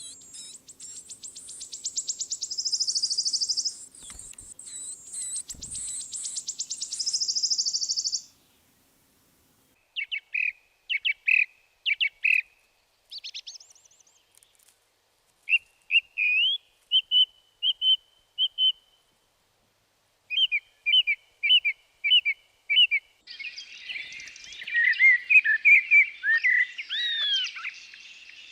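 Small songbirds chirping and singing: a rapid high-pitched trill for the first eight seconds, then short chirped phrases repeated with pauses between them, and several birds calling over one another near the end.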